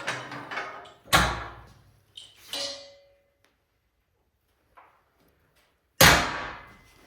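Heavy steel clanging: four loud knocks, each dying away with a ringing tail. The loudest come about a second in and near the end, and the one around two and a half seconds leaves a short ringing note.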